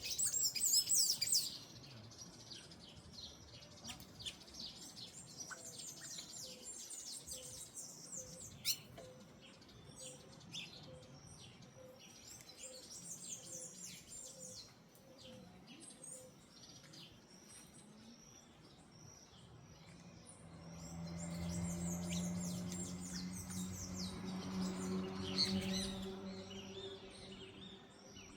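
Many small birds chirping and twittering, loudest in the first second or so and then thinner. A low hum swells up about two-thirds of the way through and fades out again a few seconds later.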